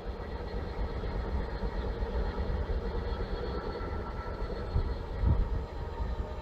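Class 66 diesel locomotive idling while standing, a steady low rumble with a faint hum above it.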